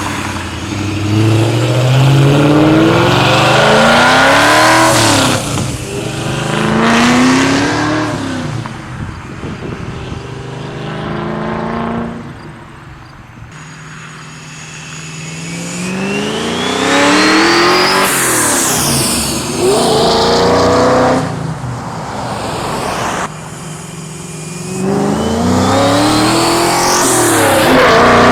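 1999–2004 Mustang GT's 4.6 L two-valve V8, running through long-tube headers, a catted mid-pipe and SLP Loud Mouth 1 mufflers, pulling hard through the gears. Several runs climb in pitch and drop back at each shift, with a raspy exhaust note. It eases off for a few seconds in the middle before accelerating again.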